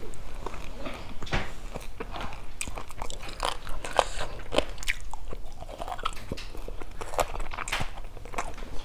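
Close-miked chewing and biting of fish-sauce fried chicken wings with rice, with irregular crunchy clicks throughout.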